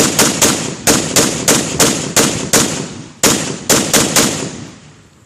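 Zastava PAP M92 AK pistol in 7.62x39 firing semi-automatically in rapid succession, about fourteen shots at roughly three a second. The last shot rings away about a second before the end.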